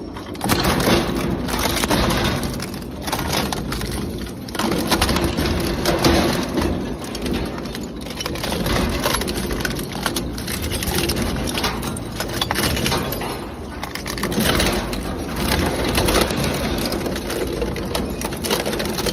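Industrial shredder tearing and crushing scrap metal: a continuous loud grinding with a dense run of sharp cracks and crunches over the steady drone of the machine.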